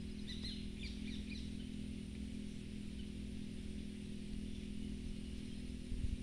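A few short, high bird chirps during the first second and a half, then only a steady low hum.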